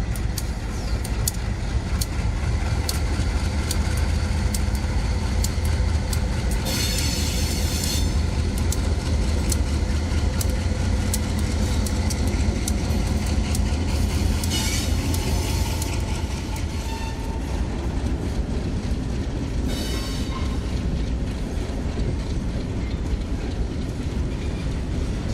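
Freight train rolling past: a steady low rumble with the clicking of wheels over rail joints, and short bursts of high wheel squeal about seven, fifteen and twenty seconds in.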